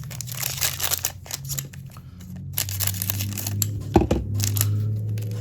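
A trading-card foil pack being torn open and its wrapper crinkled, in a run of crackly rustles, with one sharp knock about four seconds in.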